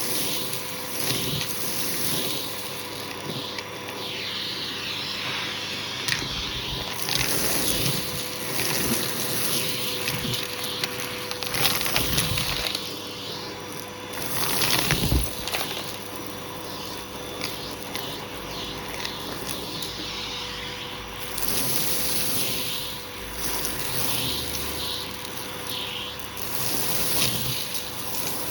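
Hoover vacuum cleaner running with a hose tool, sucking carpet powder out of a shag rug. A steady motor whine sits under a rushing of air that swells and fades as the tool is pushed back and forth through the pile.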